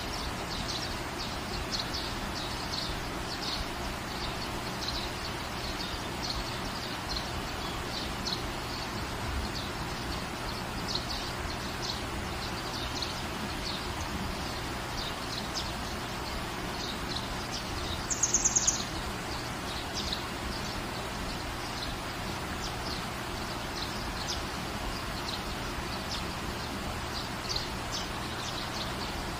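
Steady rain falling on a garden, with small birds chirping constantly over it and one louder, higher bird call about eighteen seconds in.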